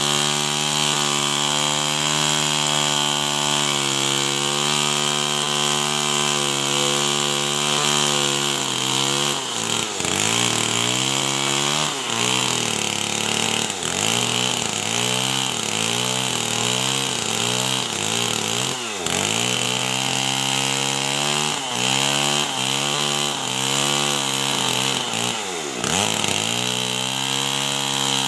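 Two-stroke chainsaw running at full throttle. About nine seconds in it cuts into wood: its pitch sags and recovers again and again under load. Near the end it runs free and steady again.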